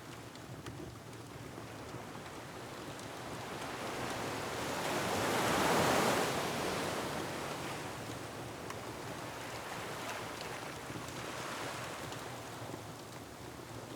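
Ocean surf on a rocky shore: a wave swells up to a peak about six seconds in and washes back down, over a steady rush of water and wind. Faint crackles from a wood fire tick through it.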